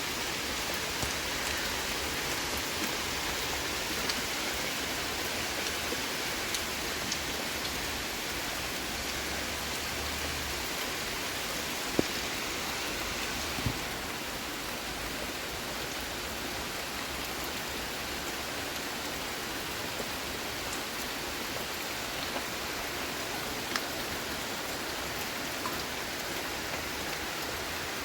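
Heavy rain falling steadily, a dense even hiss with a few sharper single drop impacts standing out now and then.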